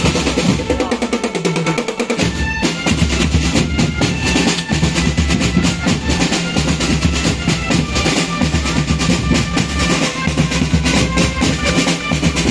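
Marching band drum line playing: rapid snare drum strokes over bass drums, with a few held melody notes above. The deep bass drums drop out for about a second and a half near the start, then come back in.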